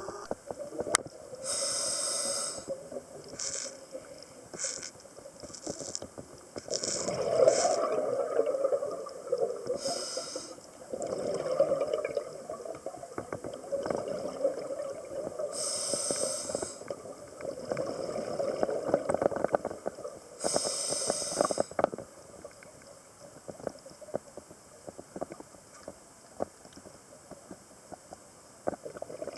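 Scuba diver breathing through a regulator underwater: exhaled bubbles gurgle and rush out in loud bursts several seconds apart.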